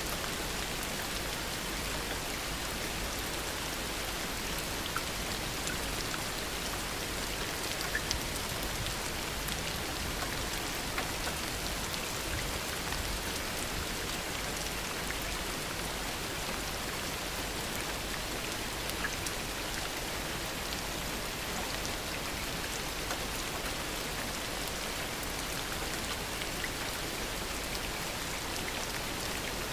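Steady heavy rain falling, an even hiss with scattered drops pattering on surfaces.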